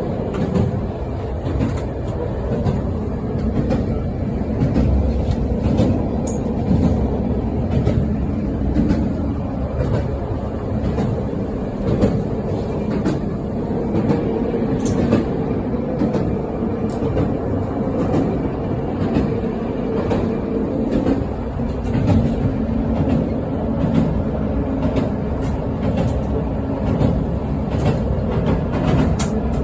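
Moving passenger train's running noise: a steady low rumble with frequent irregular clicks of the wheels over the rails.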